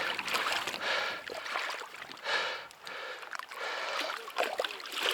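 Water splashing and sloshing in irregular surges as a hooked common carp thrashes at the surface while being brought in.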